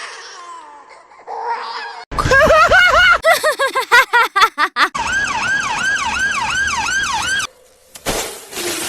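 Siren yelping: a pitch that rises and falls quickly, about three times a second, loud from about two seconds in. It cuts off abruptly, and a short noisy burst follows near the end.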